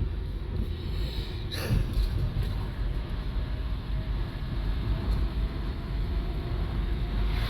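Steady low rumble of a vehicle driving, heard from inside the cabin, with a brief knock about two seconds in.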